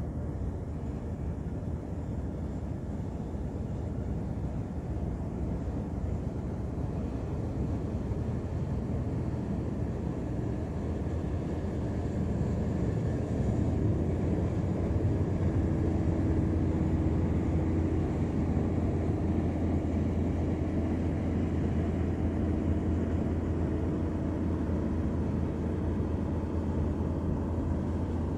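Ship's engine running with a steady low drone, growing louder about halfway through as a steady hum rises above it.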